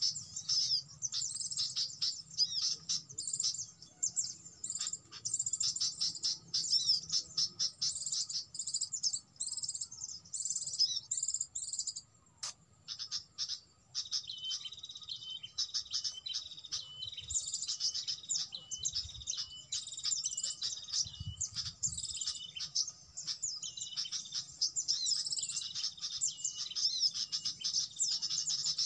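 Small songbirds twittering in rapid, nearly continuous high chirps, with a short lull about twelve seconds in. A faint steady high tone runs underneath.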